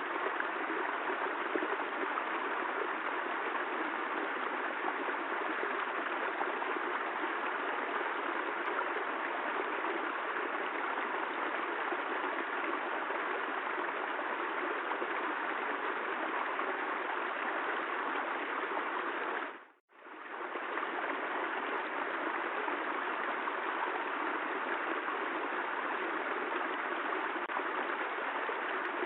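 Steady rain, an even rushing hiss that fades out to a moment of silence about two-thirds of the way through and fades straight back in, like the seam of a looped recording.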